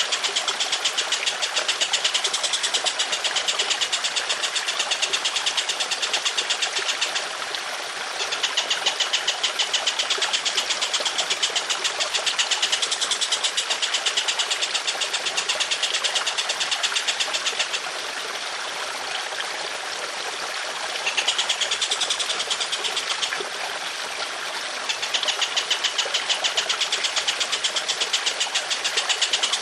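Songbird tutor recording: a bird's long, harsh 'tembakan' call of fast, evenly repeated high notes, breaking off briefly three times, over the steady trickle of running water.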